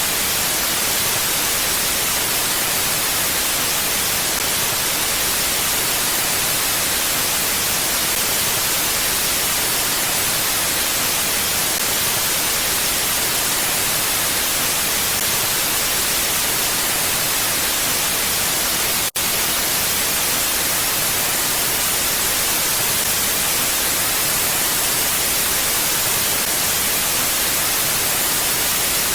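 Steady mountain wind, an even hiss with no gusts, that drops out for a split second about nineteen seconds in.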